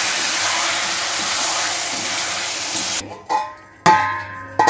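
Chicken and onions sizzling loudly in hot oil in an iron kadhai. The sizzle cuts off abruptly about three seconds in. Then come three sharp, ringing clanks of steel cookware, with the kadhai being covered by its steel lid.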